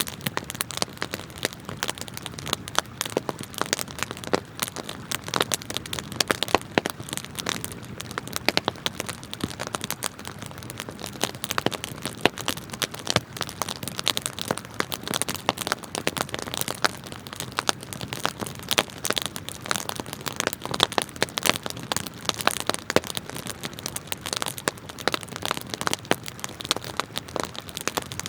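Wood campfire crackling, with many sharp pops close together throughout, over the steady wash of a flowing river.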